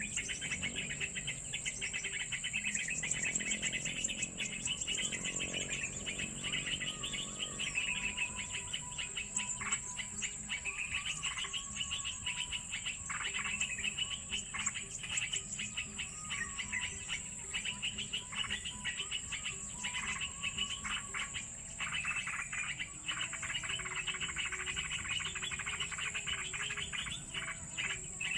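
Birds chirping in quick, repeated bursts over a steady, high insect buzz, with faint held tones underneath that sound like music.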